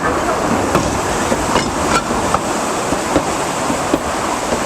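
Passenger train car rolling along the track: a steady rumble with scattered sharp clicks and knocks from the wheels and car.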